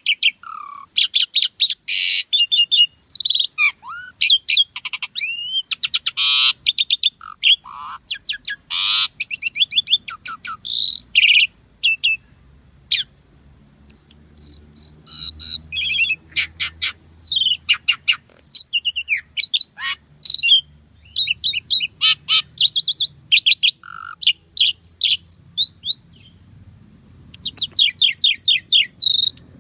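An Asian pied starling singing a long, varied song: quick runs of harsh chattering, buzzy trills and whistled notes, with a short lull a few seconds before the end.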